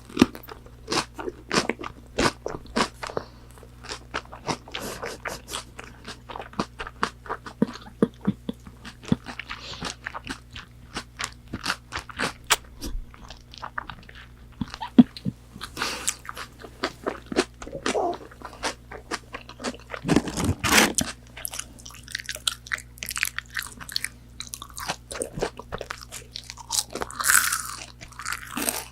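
Close-miked crunching and chewing of McDonald's chicken nuggets, the crisp fried coating crackling in rapid clicks with each chew. There is a louder, fuller bite about two-thirds of the way through.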